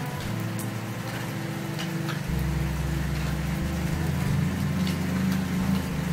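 Background music of sustained low droning notes that shift in pitch every second or so, with faint scattered clicks over it.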